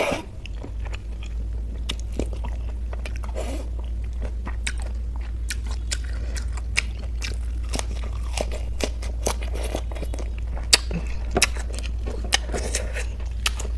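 Close-miked chewing and biting: wet mouth clicks and smacks from eating kadhi-soaked rice by hand, with crunching from a crisp lettuce leaf. A steady low hum runs underneath.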